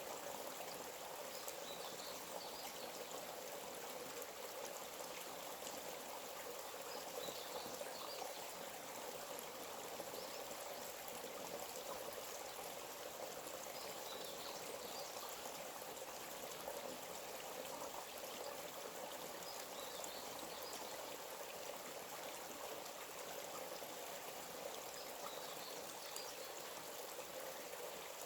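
Small forest stream running steadily. A faint short bird call repeats about every six seconds.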